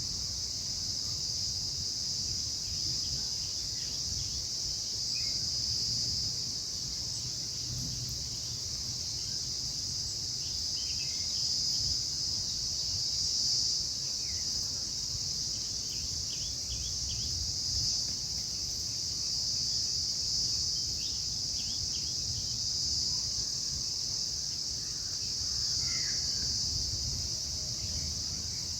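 A steady, high-pitched chorus of insects droning without a break, with faint short bird calls now and then.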